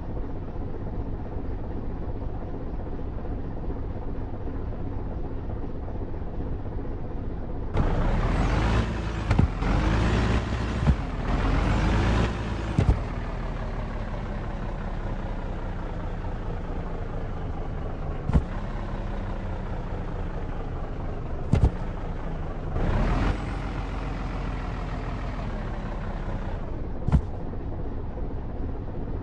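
Truck engine and road rumble while driving. About eight seconds in the engine revs up in several short, loud surges until about thirteen seconds in, then its pitch falls slowly, with one more brief surge later. Three sharp knocks are scattered through it.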